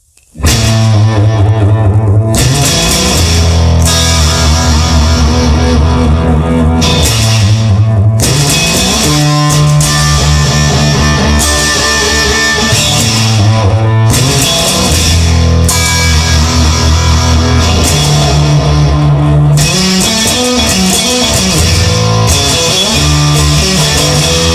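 Rock music instrumental: electric guitar and bass with drums, starting about half a second in.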